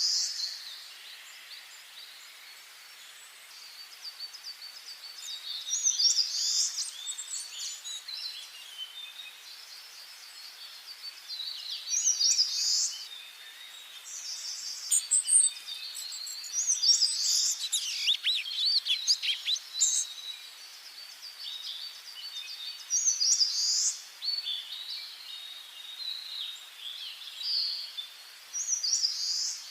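Wild songbirds singing in a forest: one bird repeats a short, bright song phrase about every five to six seconds, with fainter chirps from other birds in between.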